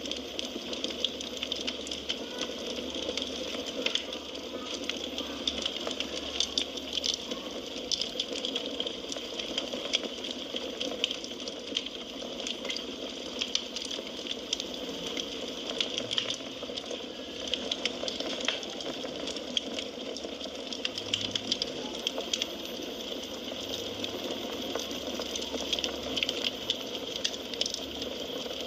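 Wood fire crackling in a fireplace: a steady hiss of burning logs with frequent small, sharp pops.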